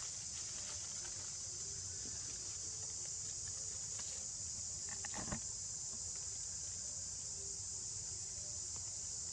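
Steady, high-pitched drone of a forest insect chorus, with one brief click a little past five seconds in.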